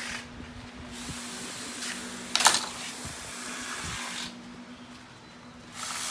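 Long bursts of hissing spray, three in all with short gaps between. A single sharp clank about two and a half seconds in.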